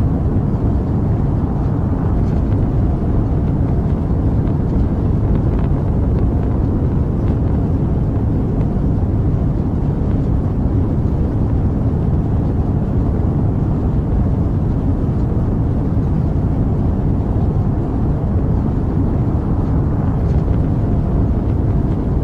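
Rocket launch engine noise: a steady, loud, deep rumble that holds unchanged throughout.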